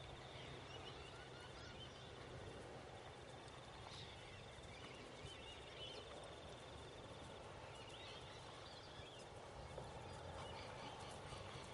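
Faint outdoor background with a distant bird's rapid chattering call, coming and going several times.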